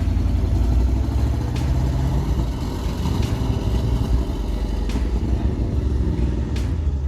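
A large vehicle engine running hard, with a dense pulsing rumble and a few sharp clicks.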